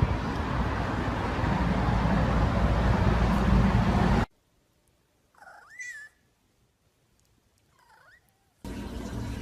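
A domestic cat meows twice, a short call that rises and falls in pitch followed about two seconds later by a fainter one. Before them there are several seconds of loud, steady noise that cuts off suddenly.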